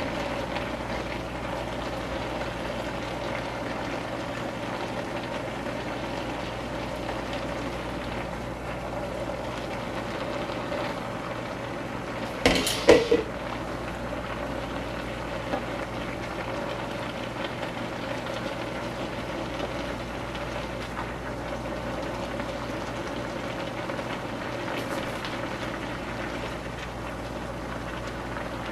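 Sausage and vegetables sizzling steadily in a wok as they are stirred with a spatula, with a short clatter of a couple of sharp knocks about halfway through.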